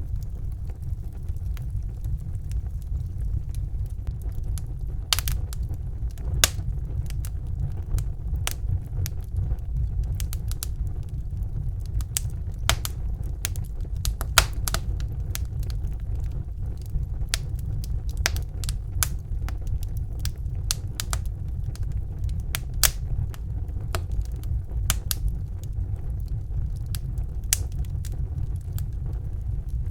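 Wood fire burning in a fireplace: a steady low rumble of the flames with irregular sharp pops and crackles, sparse at first and coming every second or so from about five seconds in.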